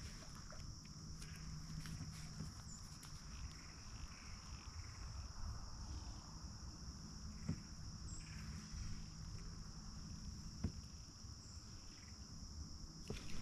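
Faint, steady, high-pitched drone of insects calling, with a couple of soft knocks near the middle and later on.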